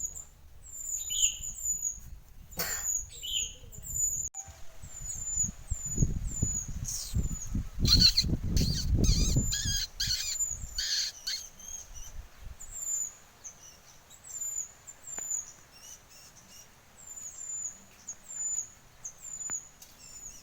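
Oriental magpie-robin (mantenan) calling: a short high falling note repeated about every half second. Louder, lower whistled phrases and a low rumble come partway through.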